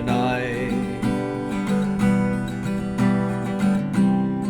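Acoustic guitar strummed in a steady rhythm. A sung line ends on a held note in the first second.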